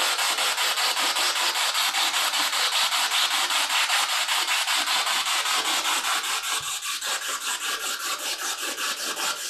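Spirit box sweeping through radio stations: loud static hiss chopped into rapid, even pulses several times a second.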